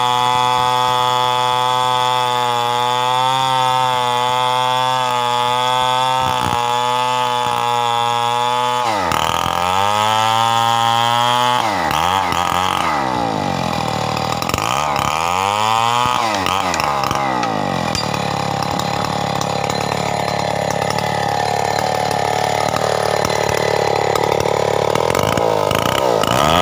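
Stihl 070 two-stroke chainsaw running at a steady high speed. About a third of the way in, its pitch dips and climbs back several times, then for the rest of the time it runs rougher and noisier.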